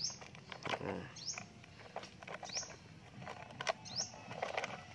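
A bird chirping, four short rising high chirps about 1.3 seconds apart. Under them are light clicks and soft sloshing from a plastic toy dump truck moving through shallow muddy water.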